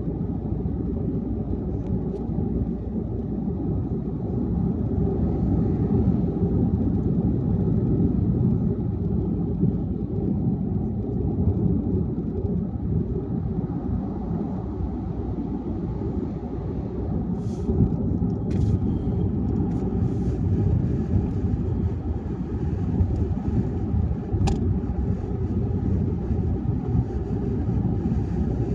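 Steady low rumble of a car driving at highway speed: tyre and road noise with the engine underneath. A few faint clicks come about two-thirds of the way through, and one sharp tick follows a little later.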